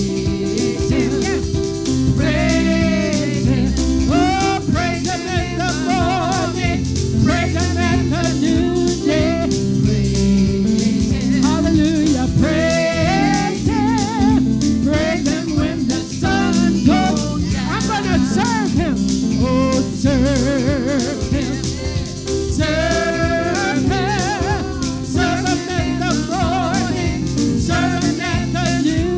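Gospel music: a voice sings a wavering melody with vibrato over continuous band accompaniment.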